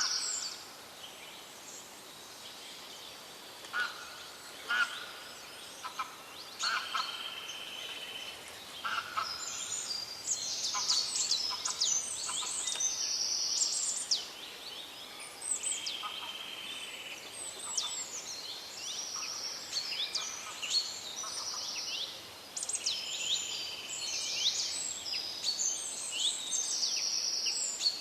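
Several songbirds singing and calling at once: high buzzy trills and quick downward-sweeping chirps, sparse at first and busier from about ten seconds in, over a faint steady hiss.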